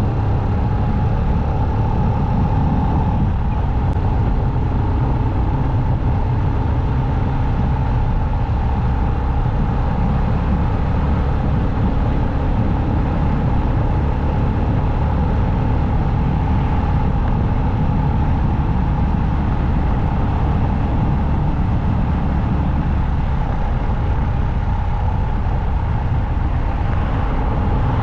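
A motorcycle riding at a steady cruising speed, its engine running evenly under a constant rumble of wind and road noise.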